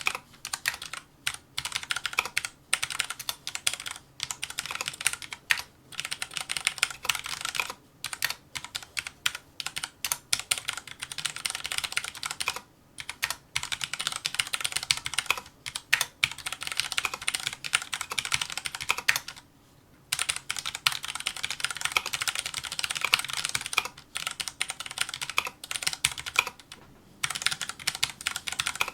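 Fast, continuous touch-typing on a Filco Majestouch2 mechanical keyboard with Cherry MX Brown switches: rapid key clacks in dense runs, broken by short pauses, the longest a little before the two-thirds mark.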